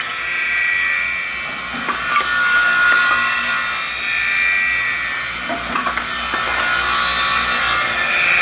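Four-blade pallet stringer trim saw crosscutting wooden pallet stringers into repair blocks: a steady high blade whine that swells a few times as stock is fed through, with a few sharp wooden knocks between cuts.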